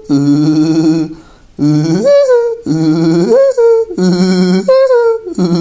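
A person's voice doing a Woody Woodpecker impression: the cartoon woodpecker's trilling laugh in repeated phrases of about a second, each wavering and jumping up in pitch partway through.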